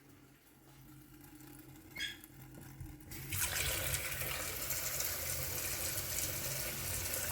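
Water starts running from a tap about three seconds in and keeps running steadily.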